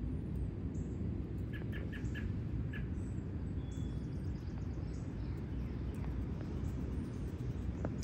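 A row of five short bird chirps about a second and a half in, with faint high bird chirps scattered throughout, over a steady low outdoor rumble.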